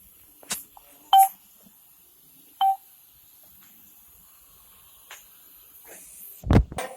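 Two short, loud electronic beeps at the same pitch, about a second and a half apart. Near the end comes a heavy thump.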